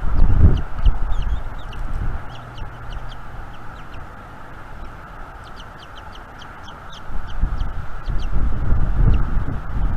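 Wind buffeting an outdoor nest-cam microphone in gusts: strong at the start, easing in the middle and building again after about seven seconds. Many short, high bird chirps run through it.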